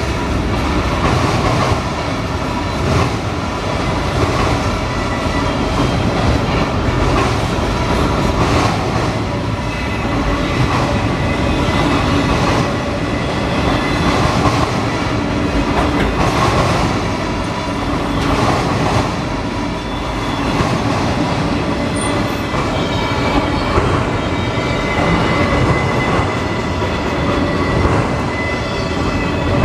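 Canadian Pacific freight train rolling past at length: a steady rumble of railcars with repeated clacks of wheels over rail joints and a thin steady high tone running through it.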